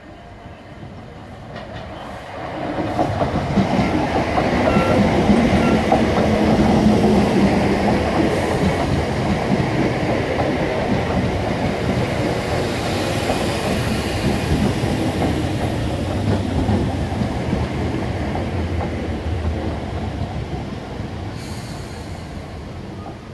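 Abellio Greater Anglia electric multiple unit running in close past on the rails. The rumble builds over the first few seconds and then fades away gradually.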